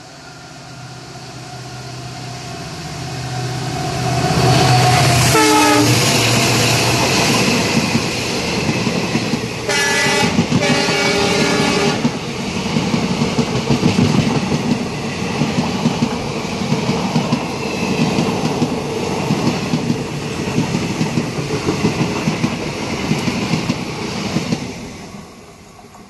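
An express train with a diesel locomotive passes close on the adjacent track. The engine grows louder as it approaches, and a horn drops sharply in pitch as the locomotive goes by about five seconds in. A horn sounds again at a steady pitch in two blasts around ten seconds in, then the coach wheels clatter over the rail joints in a quick, even rhythm until the last coach clears near the end and the sound falls away.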